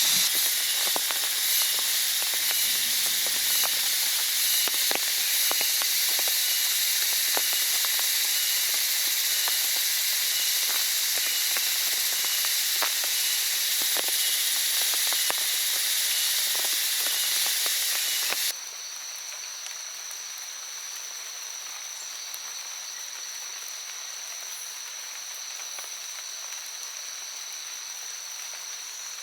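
Heavy rain hissing steadily, with scattered drops striking close by. About two-thirds of the way in it cuts abruptly to a quieter rain background carrying steady high-pitched tones.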